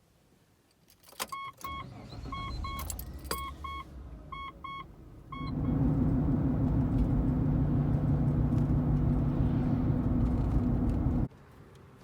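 Car sounds: a few clicks and a warning chime beeping in pairs over a low rumble. About five seconds in, a louder steady hum of a running car takes over, then cuts off suddenly near the end.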